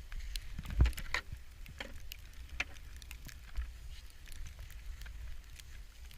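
Footsteps crunching in deep snow, heard as scattered crackles over a low wind rumble on the microphone, with a louder thump about a second in.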